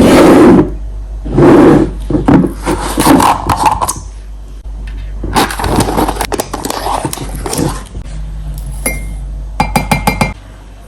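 Dishes and kitchen utensils knocking, clinking and scraping, with a quick run of ringing clinks about nine seconds in.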